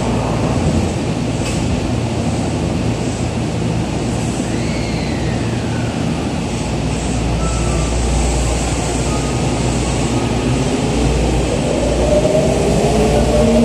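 Tokyu 3000-series commuter train at an underground platform: a steady low rumble while it stands. Then, about twelve seconds in, it pulls away, with its traction motors whining upward in pitch as it accelerates.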